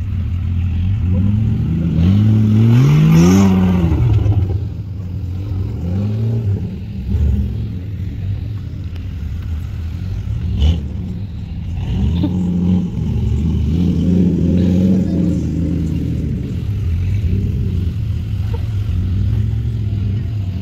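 Jeep engine running at crawling speed on an off-road trail. It revs up sharply a couple of seconds in, then keeps rising and falling with the throttle. One sharp knock is heard about halfway through.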